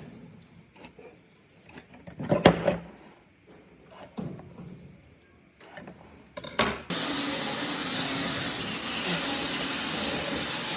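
Scattered knocks and taps of hand work on wood, then about seven seconds in a power tool starts abruptly and runs steadily with a loud, hissing sound.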